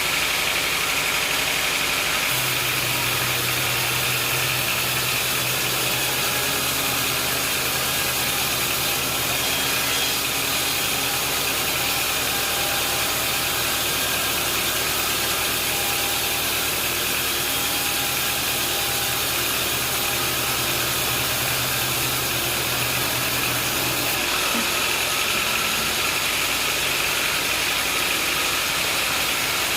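Engine running steadily with a constant mechanical hum. A low steady tone comes in about two seconds in and drops out a few seconds before the end.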